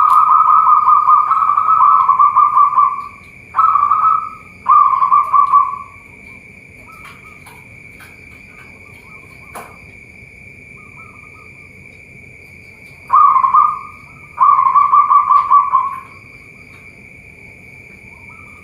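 Zebra doves (perkutut) cooing in rolling phrases of rapid notes. A long phrase ends about three seconds in, two short ones follow around four and five seconds, and after a long pause two more come near thirteen and fifteen seconds.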